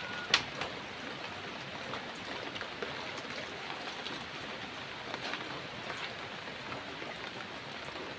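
Heavy rain falling steadily, with scattered drops tapping close by and one sharper tap about a third of a second in.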